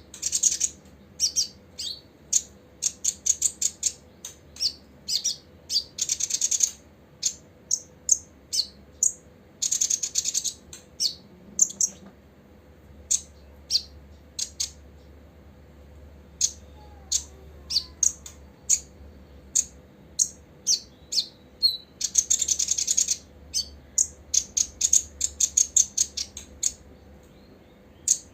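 Copper-throated sunbird calling: a long series of short, sharp, high chirps, broken three times by a burst of rapid chattering trill lasting about a second.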